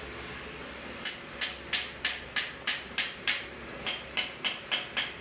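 Hammer blows on metal, about three a second: a run of eight sharp strikes, a short pause, then five more that ring with a clear metallic tone.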